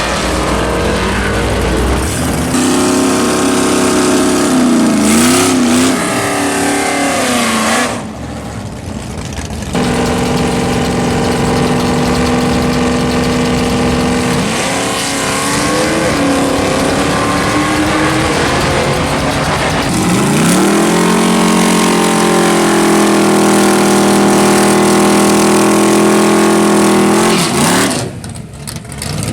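Drag-racing car engines running hard at high rpm: the pitch climbs and then holds steady for several seconds at a time, cutting off sharply about eight seconds in and again near the end.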